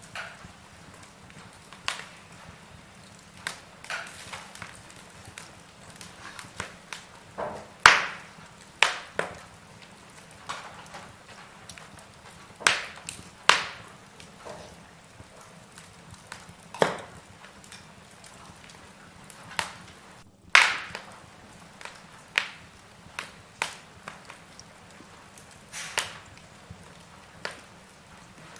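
Wood logs burning in a fireplace, crackling with irregular sharp pops over a faint hiss, the loudest pops about a quarter and two-thirds of the way through.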